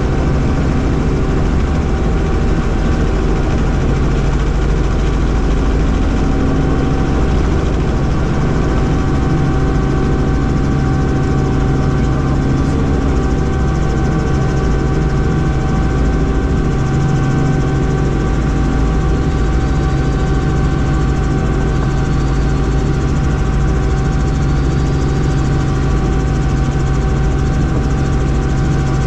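Helicopter running steadily: a loud, even drone of engine and rotor with a constant high whine over a low rumble.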